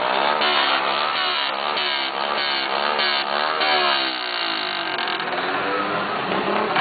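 Several motorcycle engines being revved up and down over and over, their pitches overlapping as they rise and fall.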